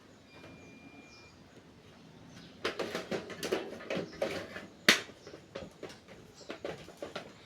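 A quick clatter of clicks and knocks from hard objects being handled. It starts a few seconds in, has one sharp loud knock near the middle, and then thins to lighter clicks.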